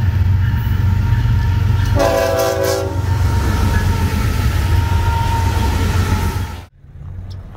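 Florida East Coast Railway diesel locomotive passing close by, with a heavy low rumble. A horn blast of about a second sounds two seconds in. The sound cuts off abruptly near the end.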